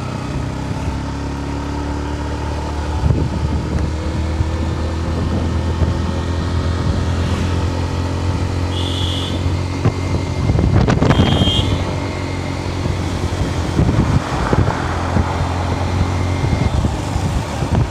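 Yamaha FZ-S V3's single-cylinder engine running as the motorcycle is ridden, its pitch rising gently as it gathers speed. Several swells of wind noise hit the microphone along the way.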